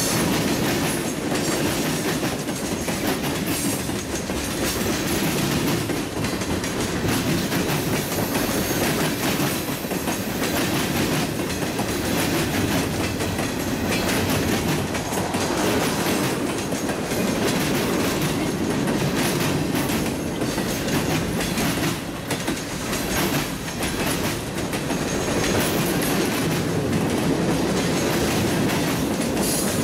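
A train rolling past at steady speed, its wheels clicking again and again over the rail joints, with no let-up.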